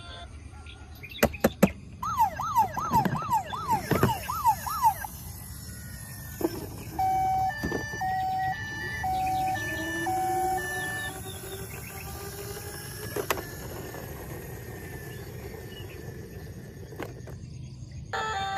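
Electronic toy-vehicle sound effects: a few sharp clicks, then a fast up-and-down siren wail for about three seconds, followed by four evenly spaced beeps and a few more clicks.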